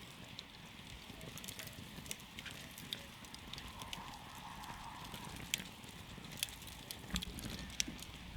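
Wood campfire burning, with a low steady rush of flame and sharp crackles and pops at irregular intervals.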